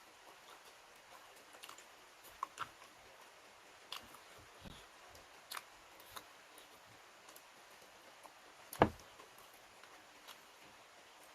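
Close-miked eating sounds: scattered small clicks and taps from chewing and handling food, with one sharper knock about nine seconds in.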